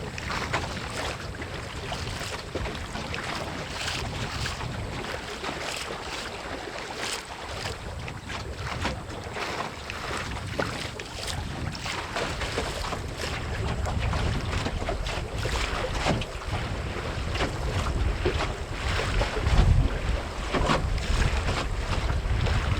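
Strong wind buffeting the microphone, with water splashing and slapping against the hull of a small wooden Melonseed skiff under sail. It comes in many short splashes over a steady low rumble and grows louder in the second half.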